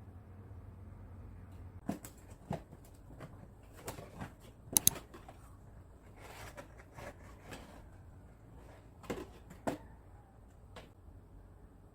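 A scatter of short clicks and knocks, like objects being handled and set down, over a low steady hum; the sharpest knocks come about five seconds in.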